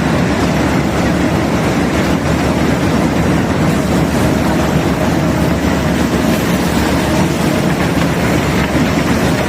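Steady rumbling machinery noise of a self-unloading barge discharging bulk cargo, with a faint steady hum over it.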